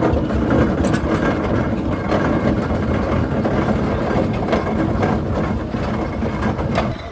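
Steam traction engine running on the move, a steady mechanical rumble and clatter with a few sharper clanks, dropping away near the end.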